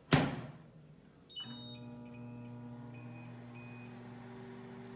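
Microwave oven door shut with a loud clunk, then a few short keypad beeps as the time is set, and the oven starts running with a steady electrical hum.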